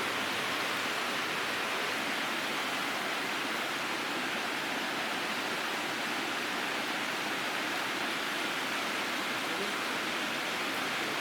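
Steady rushing of flowing water, like a stream running over rocks, with no breaks or changes.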